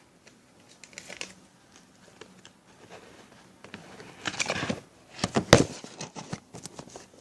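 Handling noise: scattered small clicks and rustles, growing louder in the second half with a cluster of sharp clicks and crackles.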